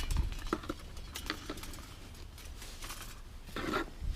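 Scattered light clicks and taps of small objects being handled and set down while sorting.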